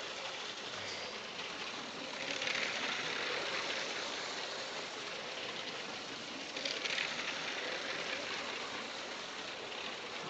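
Lego City motorised toy train running on its plastic track: a steady noise that swells louder twice, about two seconds in and again around seven seconds.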